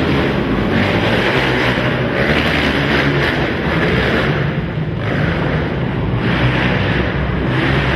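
Several racing quad (ATV) engines running loud on an indoor dirt track, their revs swelling and dropping every second or two as the riders throttle on and off.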